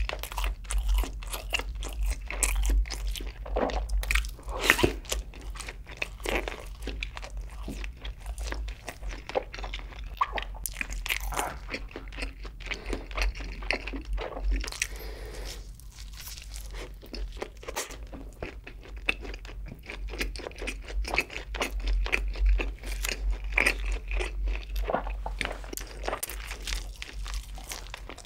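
Close-miked eating: a person bites and chews food, with many small, irregular crisp crunches and a few louder bites. The food is pieces of a flame-grilled double cheeseburger and crispy fried chicken.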